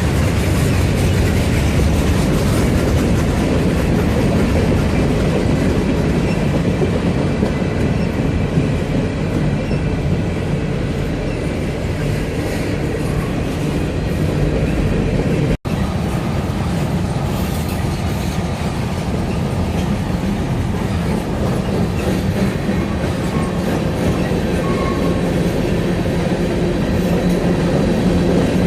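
Norfolk Southern freight train rolling past, a steady loud noise of cars and wheels on the rails. The sound cuts out for an instant about halfway through.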